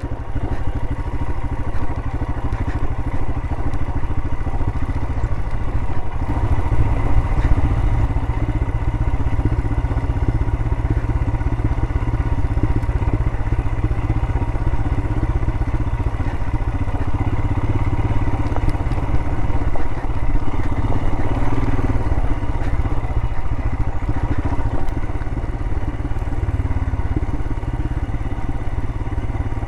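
Royal Enfield Himalayan's single-cylinder engine running steadily at low speed on a steep, rocky downhill, with some clatter.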